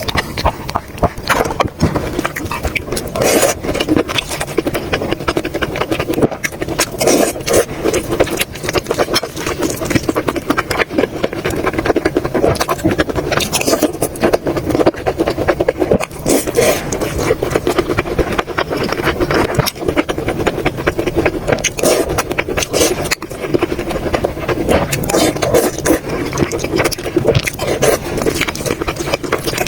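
Close-miked chewing and mouth sounds of a person eating, a dense, unbroken run of clicks and smacks.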